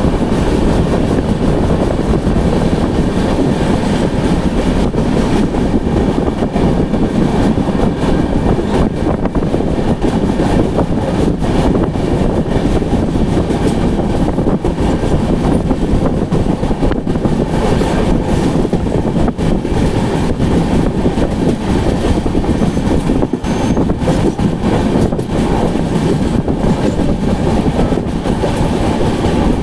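Duronto Express passenger train running along the track: a steady loud rumble of wheels on rails, broken by irregular clacks.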